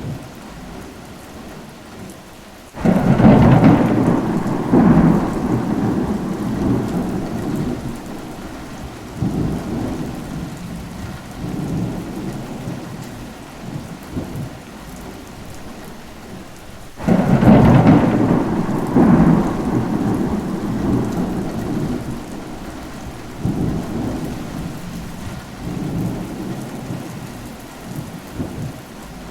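Steady rain with two rolls of thunder. Each roll starts suddenly, about three seconds in and again about halfway through, then rumbles on and fades over several seconds.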